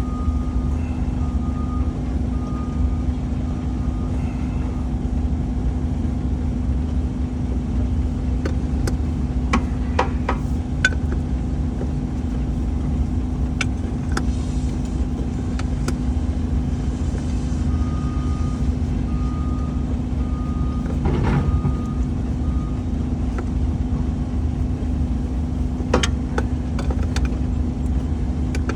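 A heavy equipment engine running steadily, with a reversing alarm beeping in short bursts near the start and again about two-thirds of the way in. A few sharp metal clinks of tools come through.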